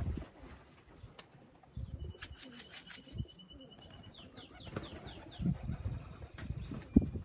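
Pigeons cooing and flapping their wings, with a small bird singing a high trill and a quick run of falling notes about two seconds in.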